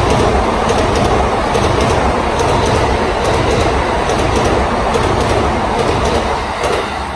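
Seibu 2000 series electric train running close by, a loud steady rumble with wheels clacking over rail joints; it starts to fade near the end.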